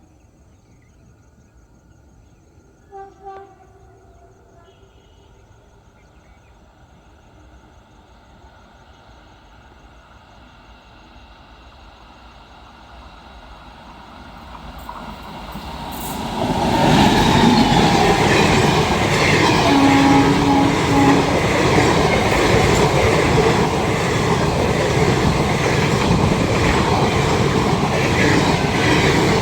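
Indian Railways train approaching and passing close at speed. A short, distant horn blast about three seconds in. The train's rumble builds slowly, then jumps to loud wheel clatter and rushing noise about halfway through, with a couple of short horn toots over it soon after.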